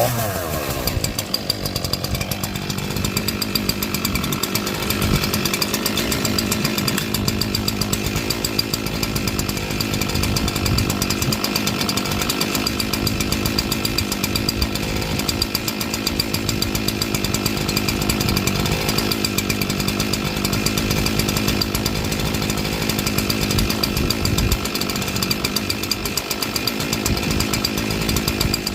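Echo CS-4910 two-stroke chainsaw engine running steadily on its own, warming up after a cold start in freezing weather.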